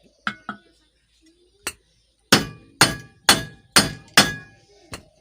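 Hammer striking metal while knocking out a ceiling fan's bearing: a few light taps, then five hard blows about half a second apart with a short metallic ring, then two lighter knocks.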